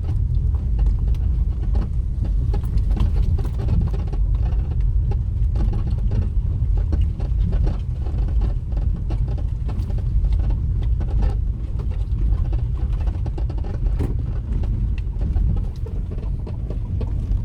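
A car driving over a rough road: a steady low rumble with many small knocks and rattles.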